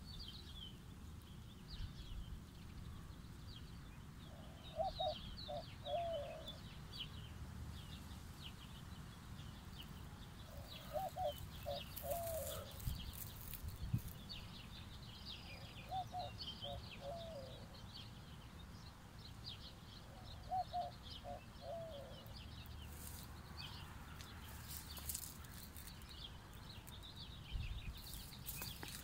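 Several birds chirping constantly in high, quick notes. A lower-pitched call of a few rapid notes repeats four times, about every five seconds. Under both is a low, steady rumble.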